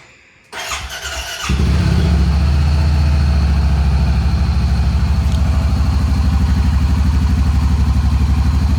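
Honda Pioneer 700-4's single-cylinder engine being started: a second of cranking, then it catches about a second and a half in and idles steadily.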